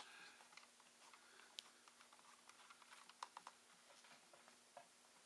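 Faint, scattered small clicks and ticks of a screwdriver and fingers working at a screw in a ThinkPad T61 laptop's plastic case, with a sharper click at the start and a quick run of clicks about three seconds in.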